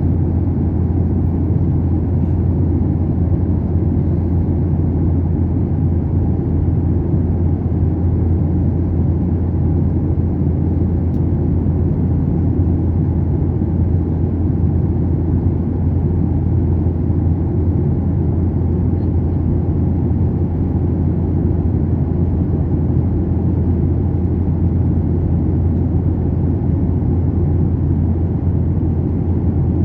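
Steady low drone inside an airliner cabin: the engines and the rush of air over the fuselage make an unbroken, deep rumble.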